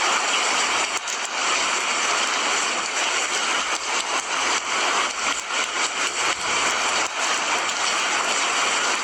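Steady heavy rain in a forest, a dense even hiss with no pauses.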